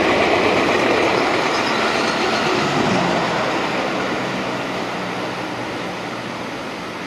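JR West 221 series electric train running on the rails and receding: the wheel-and-rail noise is loudest at first and fades steadily as the train draws away.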